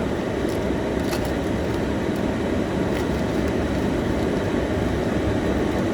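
Steady road and engine noise inside a car's cabin while it drives.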